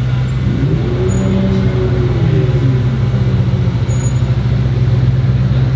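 Supercar engine idling with a steady low drone. About a second in, an engine note rises and falls once over roughly two seconds.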